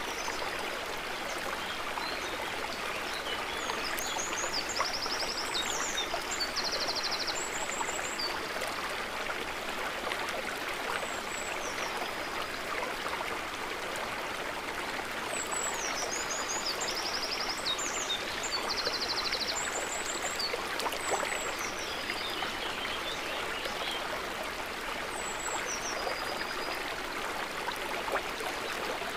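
Gently trickling, burbling water running steadily, with short high chirps and fast trills over it in two bouts, about five seconds in and again around sixteen seconds, and a few more chirps near the end.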